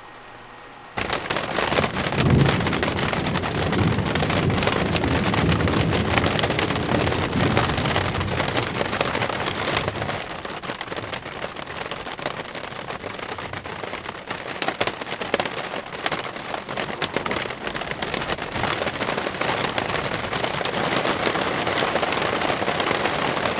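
Heavy rain coming down hard on the roof of a hand-built wooden truck camper, heard from inside. It starts suddenly about a second in, with low thunder rumbling through the first several seconds.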